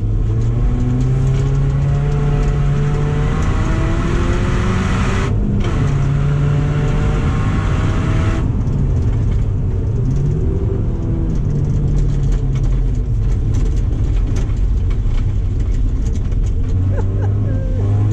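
A 2007 Subaru Impreza's flat-four engine under hard acceleration. Its pitch climbs and drops repeatedly as it runs through the gears, with a short break about five seconds in.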